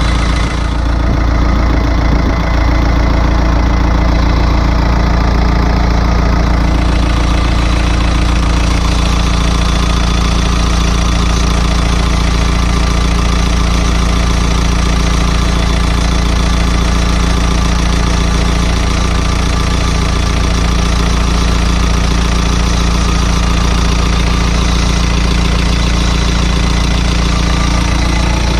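Isuzu 4BD1T four-cylinder turbo diesel idling steadily while it warms up after a cold start.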